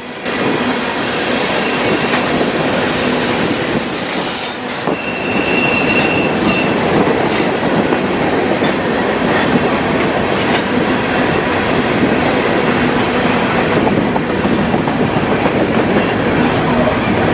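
CSX mixed freight cars rolling past at speed, a steady loud rumble of steel wheels on rail, with a brief high-pitched wheel squeal about five seconds in.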